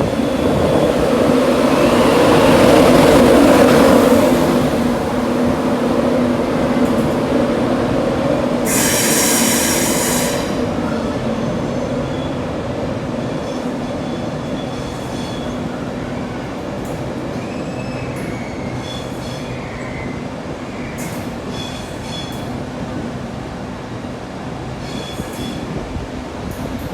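A train moving through a station with a steady low hum. It is loudest a few seconds in and then slowly fades. A brief high squeal of the wheels comes about nine seconds in, with fainter squeals later.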